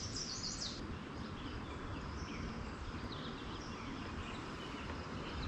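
Birds chirping, a quick run of high notes in the first second and fainter ones later, over a steady low outdoor background rumble.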